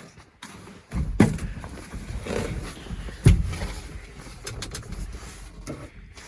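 Ford F600's FT-series V8 catching on primed fuel and running roughly for a few seconds, with two loud pops, about a second in and about three seconds in.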